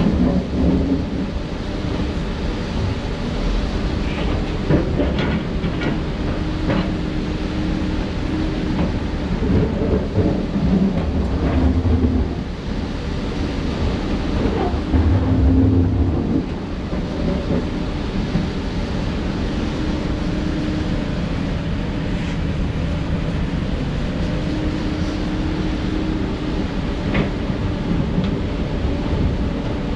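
Heavy diesel construction machinery running steadily, with two louder surges of engine load about a third and halfway through, and scattered clanks and knocks.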